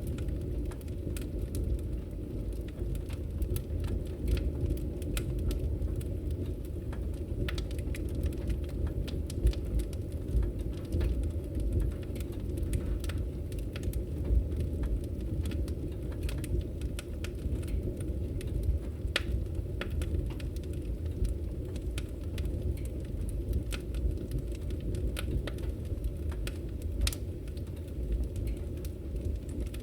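Firewood burning: a steady low rumble of flames with frequent irregular crackles and pops from the burning wood.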